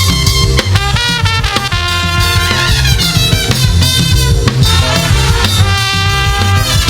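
Live gospel praise band playing at a steady beat: drum kit and heavy bass under held melody lines from instruments.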